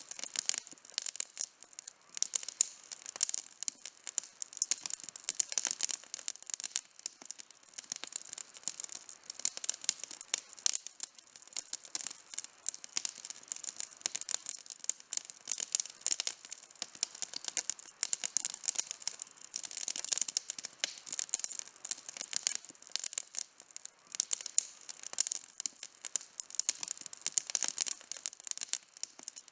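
Campfire burning, with a dense, continuous crackle of small pops and snaps from the burning wood.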